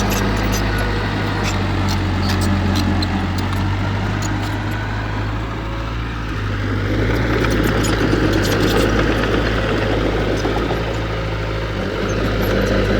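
Heavy diesel earthmoving machinery running steadily, its engine swelling under load for a few seconds past the middle, with scattered light ticks over it.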